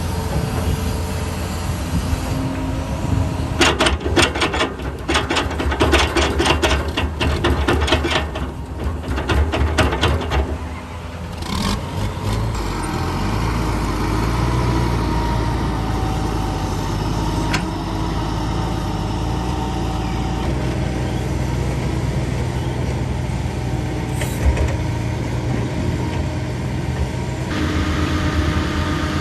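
Heavy diesel construction machinery running steadily. From about four to ten seconds in there is a run of rapid clattering knocks, then a steadier engine sound.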